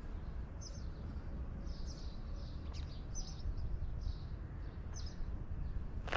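Small birds chirping outdoors, short high chirps about once a second, over a steady low rumble.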